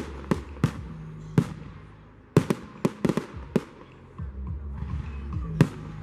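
Fireworks display: about ten sharp bangs of exploding fireworks at irregular intervals, thickest between two and four seconds in, each dying away quickly.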